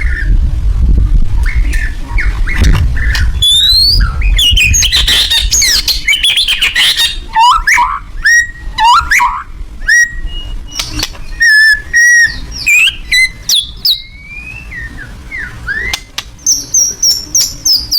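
White-rumped shama singing a loud, varied song of short whistled notes, quick rising and falling slurs and sharp clicking notes, with a low rumble under the first half.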